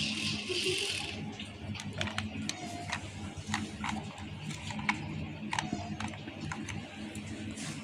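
Small geared electric motor running steadily with a low hum, broken by scattered clicks and short squeaks every second or two.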